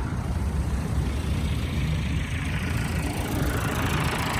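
Vehicle engine idling steadily, with more higher-pitched noise building near the end.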